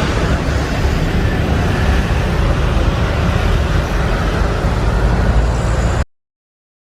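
Airbus A320-216 landing, its CFM56 jet engines giving a loud, steady roar with a deep rumble. The sound cuts off abruptly about six seconds in.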